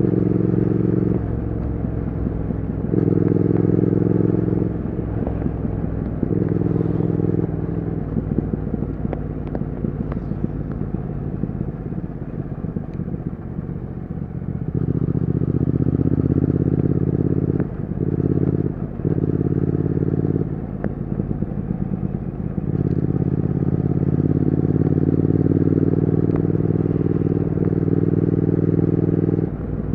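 Triumph Speed Twin 1200's parallel-twin engine and exhaust running, the note held steady for a few seconds at a time and changing in pitch between stretches, with rougher, uneven patches in between.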